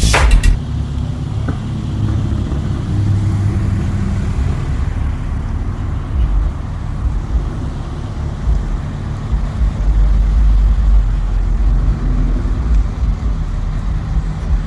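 Car engine and road rumble, low and steady, swelling a little around three seconds in and again about ten seconds in.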